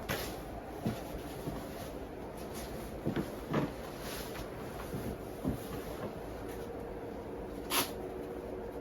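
A few soft knocks and one sharp click near the end, over a steady background hiss.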